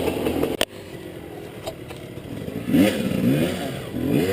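Enduro motorcycle engine running, with a sharp knock about half a second in, after which it drops quieter. Near the end it revs up and down in quick blips.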